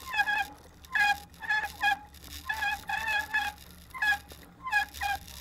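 Bicycle squeaking over and over while being ridden, a short high squeak about twice a second that rises and falls in loudness. It is the sign of an old junkyard bike still waiting for greasing.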